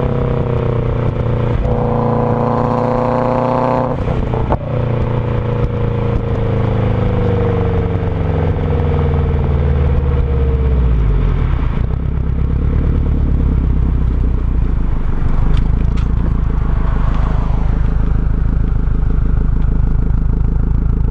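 Subaru boxer engine through a loud aftermarket exhaust: a short rev early on, then the engine speed sinks slowly over about ten seconds and settles into a steady, deep idle. A few sharp cracks from the exhaust come through along the way.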